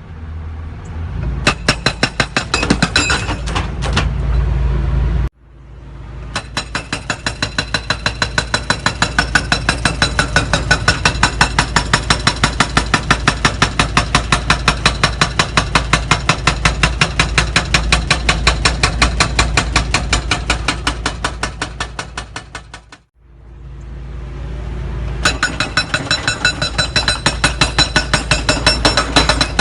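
Excavator-mounted hydraulic breaker hammering, rapid even metallic blows several times a second over the excavator's engine running. The hammering stops abruptly twice and starts up again.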